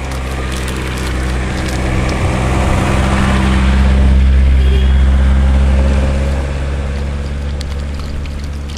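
A motor vehicle's engine running at a steady pitch, growing louder to about four seconds in and then fading.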